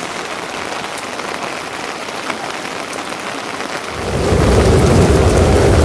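Steady rain hiss. About four seconds in, a loud low rumble starts suddenly and keeps going over the rain.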